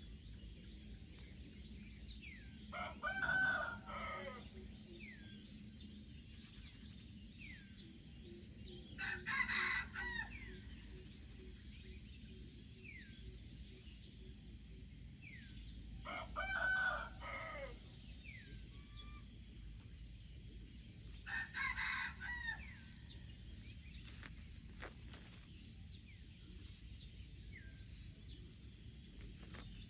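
A junglefowl rooster crowing four times, about six seconds apart, each crow short. A steady high drone of insects runs underneath, with faint chirps of small birds.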